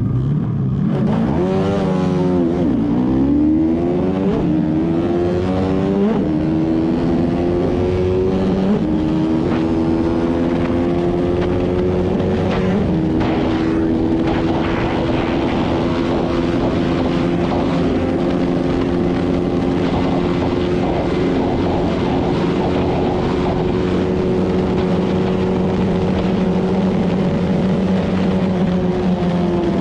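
Motorcycle engine accelerating through the gears. Its pitch climbs and drops back at each upshift, about four times in the first dozen seconds, then holds a steady note at cruising speed and eases off near the end.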